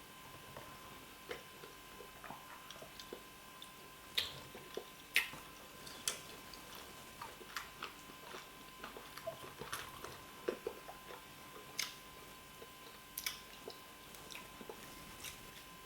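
Close-miked eating sounds: soft wet chewing, lip smacks and mouth clicks at irregular intervals as fufu is eaten with oha soup.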